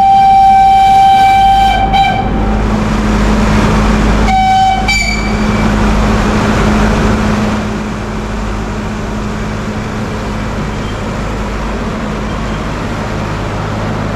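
Nilgiri Mountain Railway heritage train sounding its horn: a long single-pitched blast at the start and a short one about four seconds in, over the steady rumble of the locomotive.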